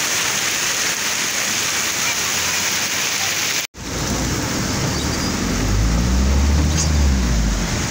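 Heavy monsoon rain pouring onto a street, a steady hiss. About three and a half seconds in the sound cuts off abruptly, then rain patters on a car's window heard from inside the moving car, with a low rumble from the car growing louder.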